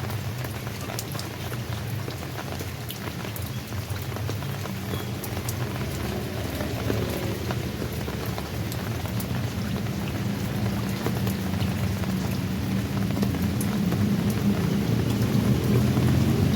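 Steady rain falling, with scattered sharp drop impacts over an even hiss. A low rumble under it grows louder toward the end.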